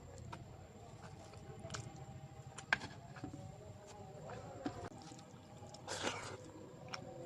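Close-miked eating: wet chewing and squishing of rice and curry, with scattered small clicks and a sharper, louder noise about six seconds in.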